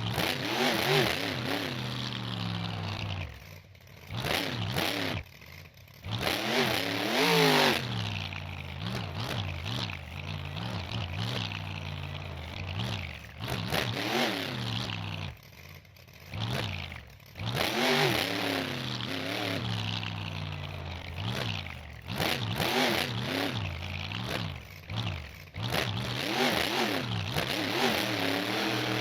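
Monster truck engine revving hard again and again, its pitch climbing and falling in repeated surges, with several brief drops in level between runs.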